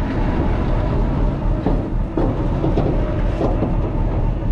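Diesel flatbed tow truck engine running under a heavy rumble, with metallic clanks and rattles as a pickup with a missing front wheel is pulled onto the flatbed deck.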